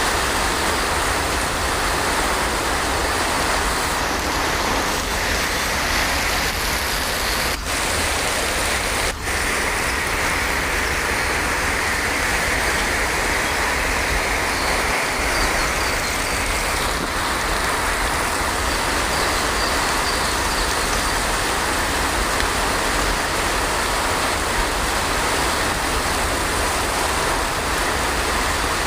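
Heavy rain falling in a steady, even hiss, with two momentary dropouts in the sound about eight and nine seconds in.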